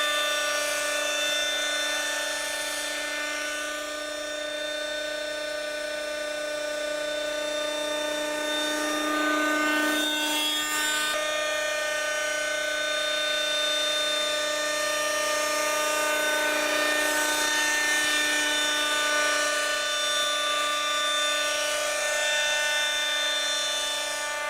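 Schlüter Magic radio-controlled model helicopter running on its glow-fuel two-stroke engine: a steady high-pitched whine that swells slightly in loudness now and then.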